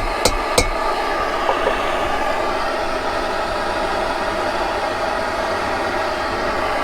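Two light hammer taps on a Suzuki T500 cylinder's aluminium cooling fin near the start, then only the steady blowing noise of the heating tool kept on the fin to soften it for straightening.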